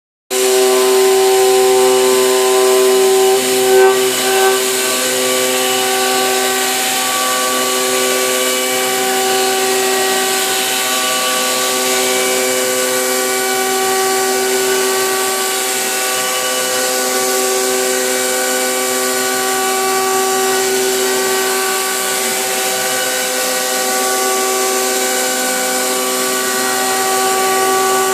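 CNC milling machine face-milling at high speed with a 50 mm face mill cutter: a steady whine of several steady tones over a hiss of cutting, heard close up from inside the machining area. It starts suddenly just after the beginning and wavers briefly about four seconds in.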